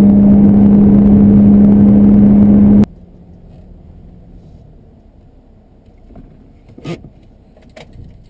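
A 2015 Camaro's V6 performance exhaust at the tailpipe, running very loud and steady at a constant high engine speed with one strong held pitch. It cuts off abruptly about three seconds in, leaving a low hum with two faint clicks near the end.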